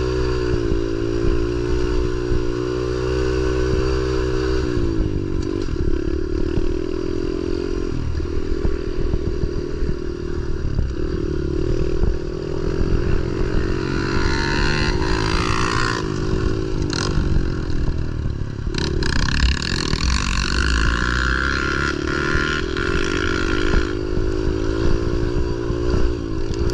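Pit bike engine running hard while being ridden, its pitch rising and dropping again and again with the throttle. There are stretches of rougher noise about halfway through and a couple of sharp knocks.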